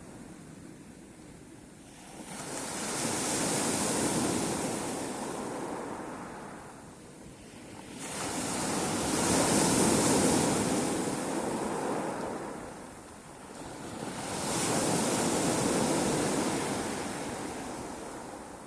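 Sea waves breaking and washing in, one after another: three swells of surf, each rising and fading away over about five seconds, the middle one the loudest.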